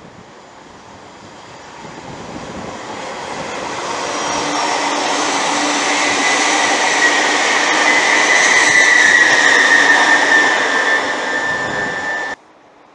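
A train approaching and passing on the main line, growing steadily louder over several seconds, with a high steady whine near its loudest. The sound cuts off suddenly near the end.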